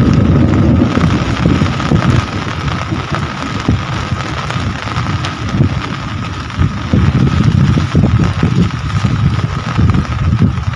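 Rain falling steadily, with a low rumble that swells and fades and a faint steady high tone.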